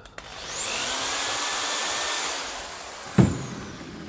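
A small handheld power tool, used to clean a cast-iron water pump casting, spins up with a rising whine, runs for about two seconds with a harsh hiss, then winds down slowly after release. A sharp knock comes about three seconds in.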